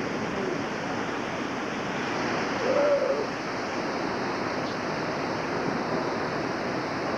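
Hurricane Charley's wind blowing steadily, a continuous rushing noise, with a short higher sound about three seconds in.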